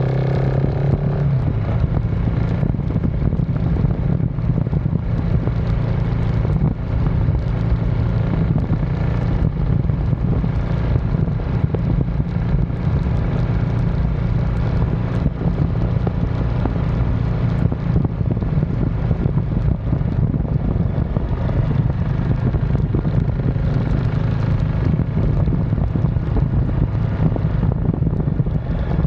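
KTM 690 SMC R single-cylinder engine through a DVR exhaust, running at a steady cruise under way, with wind noise on the microphone.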